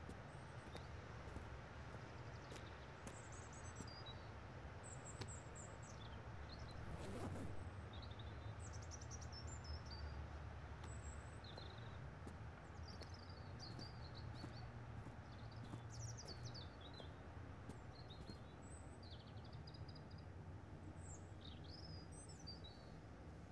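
Birds chirping in many short, high calls, some sliding down in pitch, over a steady low background rumble, with a brief swell of noise about seven seconds in.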